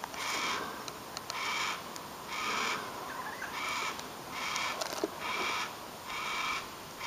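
Yellow-tailed black cockatoo chick giving rasping begging calls for food, a steady string of short harsh calls a little more than one a second.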